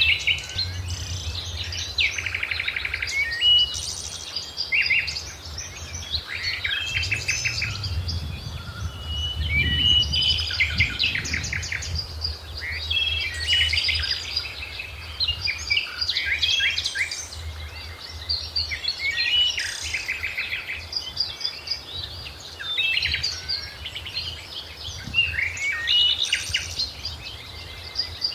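Several birds singing and calling at once: a busy, overlapping chorus of short chirps, trills and whistles. A low rumble runs underneath, strongest around ten seconds in.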